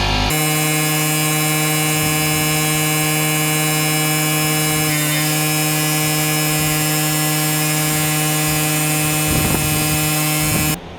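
A machine motor running at a steady, unchanging pitch: a loud hum with overtones over a hiss. It cuts in abruptly at the start and cuts off abruptly near the end.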